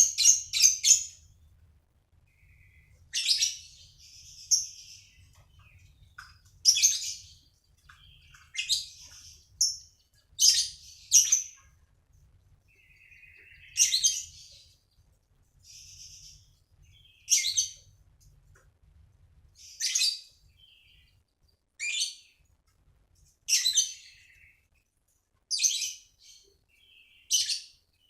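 A songbird singing short, high-pitched chirping phrases, a new burst every two seconds or so.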